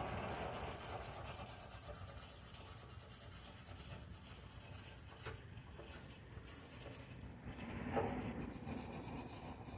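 Faint rubbing and scraping noises with a few light clicks, and a louder rustle about eight seconds in.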